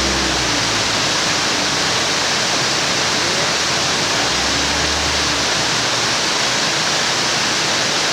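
Waterfall rushing: a steady, loud, even noise of falling water.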